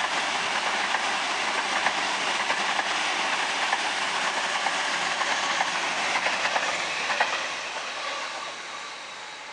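Sydney Trains Waratah electric train passing through the station on the main line, with a steady rush of wheel and rail noise and faint wheel clicks. The noise fades away over the last couple of seconds as the train moves off.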